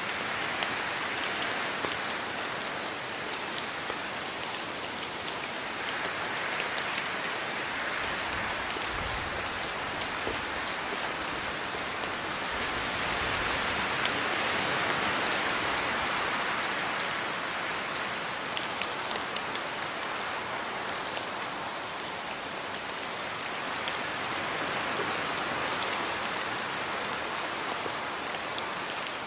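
Steady rain falling, with scattered close drops landing as sharp ticks. The rain swells a little in the middle, then eases back.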